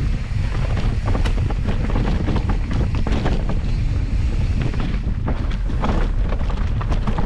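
Wind buffeting a camera microphone as a mountain bike rides over rough trail, with frequent rattles and knocks from the bike and tyres.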